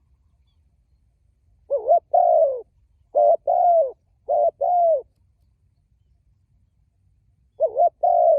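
Spotted dove cooing: one song of three paired coos, each a short note followed by a longer falling one. A second song starts near the end.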